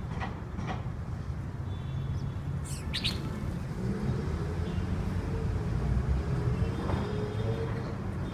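Small birds chirping, a few short high calls with the clearest about three seconds in, over a steady low rumble.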